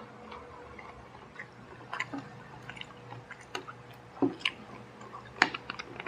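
Close-up chewing of smashed fried chicken with rice, with scattered small wet mouth clicks. From about four seconds in, a soft thump and several sharp clicks as a small plastic milk bottle is picked up and handled.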